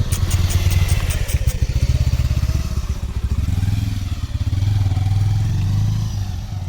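Motorcycle engine running close by: a steady, rapid low pulsing.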